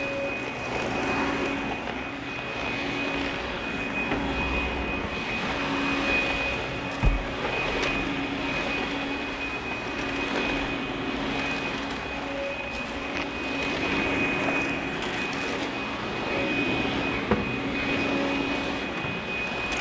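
Russell Hobbs Athena 2 Pet upright vacuum cleaner running steadily with a constant whine and hiss, the level rising and falling slightly. A single knock about seven seconds in.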